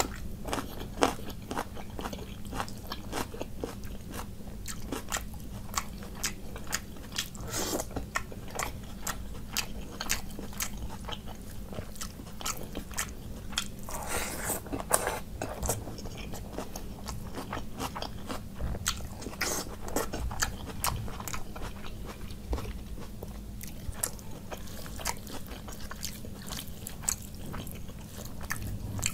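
Close-miked eating sounds: a man chewing and crunching mouthfuls of food eaten by hand, with irregular wet mouth clicks and crunches, a thicker run of crunching about halfway through.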